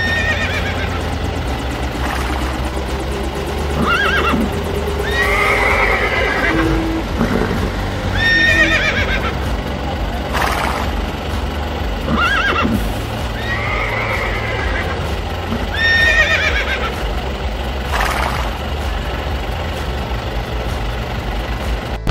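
Horse whinnies and neighs, a short call about every two seconds, over a steady low hum.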